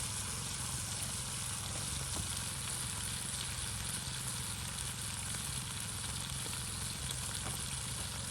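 Marinated fajita meat sizzling steadily as it fries over a campfire, with a steady low hum underneath.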